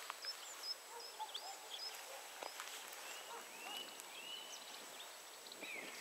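Small birds calling: scattered short high chirps in the first half, then a few longer slurred whistles that rise and fall, over faint background hiss.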